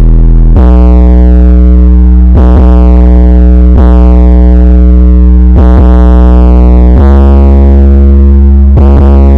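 Loud electronic dance music from a carnival sound system: a heavy, sustained deep bass under synthesizer chords that change every second or two, with falling sweeps above them. It is played at full level and is distorted.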